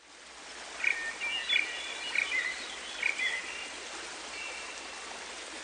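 Nature ambience fading in: a steady hiss with short bird chirps, about five calls at irregular intervals.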